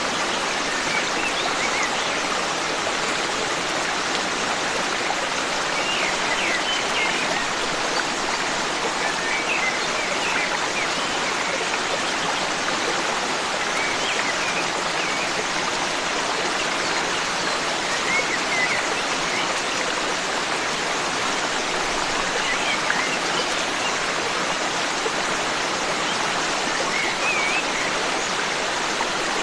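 A forest stream running steadily over rocks, with faint, brief bird chirps now and then.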